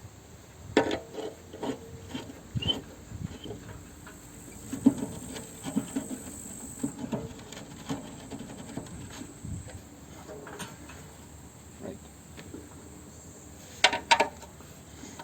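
Scattered knocks, taps and scraping of mower-deck parts being handled and fitted by hand as a shield is put on, with a sharp double knock about 14 seconds in.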